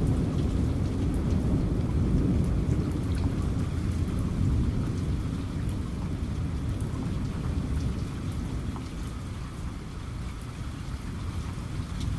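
Steady rain with a low rumble of thunder that slowly fades away.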